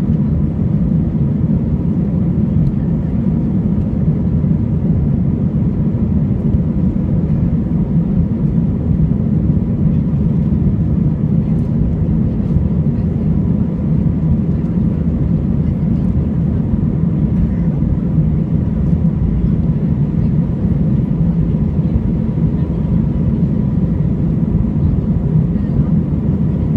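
Airbus A320 jet engines and rushing air making a steady, unbroken low roar as the airliner climbs after takeoff, with faint steady tones above it.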